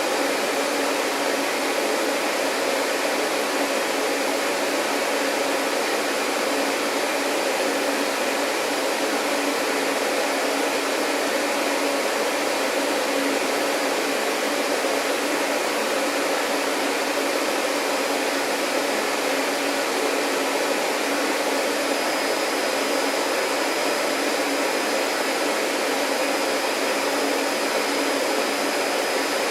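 Vacuum cleaner running steadily: a continuous even whoosh of motor and airflow with a faint hum in it. A faint high whistle joins about three quarters of the way through.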